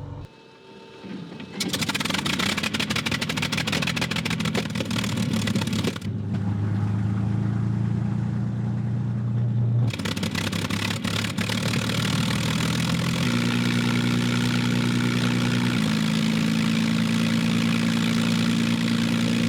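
Rolls-Royce Merlin V12 aero engine with propeller fitted starting up: it fires about two seconds in and settles into steady running, its pitch stepping up a few times as it warms up toward the minimum water and oil temperatures.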